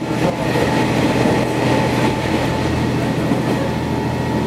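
Sanriku Railway diesel railcar running along the track: a steady rumble of wheels on rail with a low engine hum.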